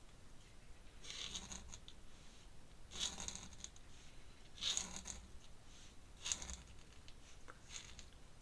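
Pen scratching across paper in about five separate short strokes, roughly every one and a half to two seconds, as lines are inked in.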